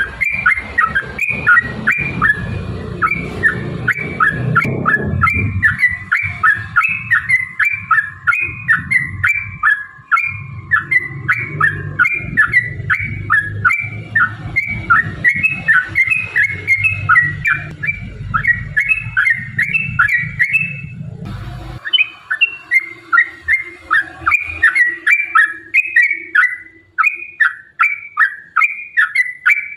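Yellow-vented bulbul singing a long, unbroken run of short bubbly notes, about three a second. A low background rumble under the song cuts off abruptly about two-thirds of the way through.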